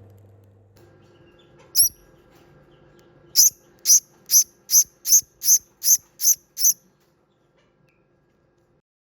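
A small bird giving short, sharp, high-pitched chirps: one single chirp, then a run of nine evenly spaced at about three a second.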